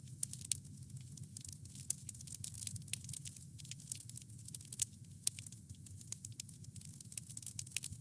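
Campfire burning with a steady low rumble and frequent irregular sharp crackles and small pops from the burning wood.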